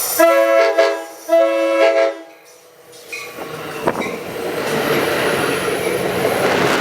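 A passenger train's multi-chime air horn sounds two blasts of about a second each. Then the train's rolling rumble and wheel noise build up.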